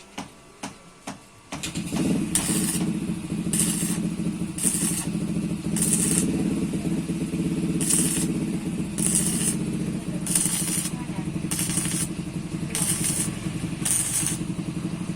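Electric arc welding on an old motorcycle's tin 'umplung' exhaust. A steady welder hum starts about a second and a half in, with short bursts of arc crackle about once a second as the seam is stitched. Before it come a few light regular clicks.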